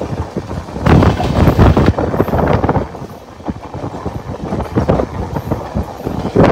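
Two trains running side by side: the rumble and rapid clatter of steel wheels on rail joints as Bhuj Express coaches pass on the next track, heard from a moving train with wind buffeting the microphone. It is loudest for a couple of seconds about a second in, eases near the middle and swells again near the end.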